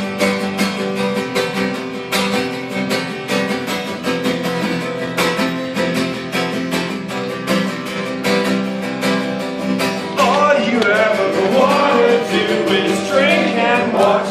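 Acoustic guitar strummed steadily in an instrumental break between verses. A voice comes in singing about ten seconds in.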